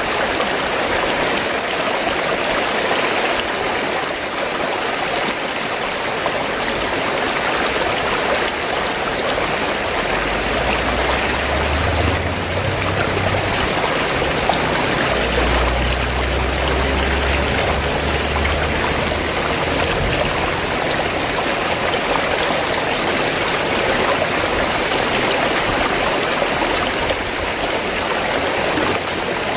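Fast-flowing stream gurgling steadily. A low rumble comes and goes near the middle.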